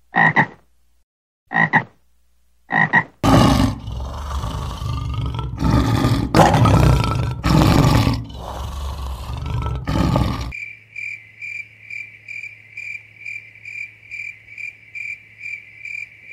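A few short frog croaks, then a large animal roaring loudly in several long, heaving calls. From about ten seconds in comes a steady high-pitched pulsing trill, two to three pulses a second.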